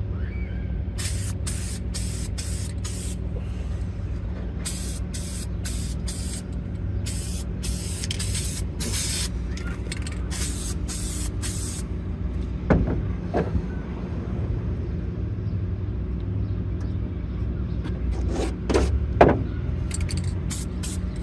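Aerosol spray paint can sprayed in rapid short bursts, about seventeen quick hisses in four groups, as a green coat goes onto a steel helmet. After that the spraying stops and a few light knocks or clicks follow over a steady low hum.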